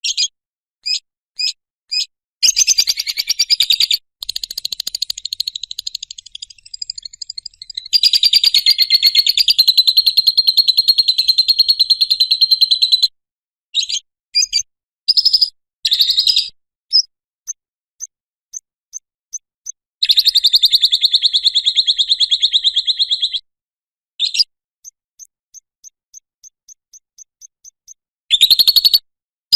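Lovebird 'ngekek': long, fast, high chattering trills of several seconds each, starting about two and a half seconds in, eight seconds in and twenty seconds in, between short single chirps and runs of faint quick pips.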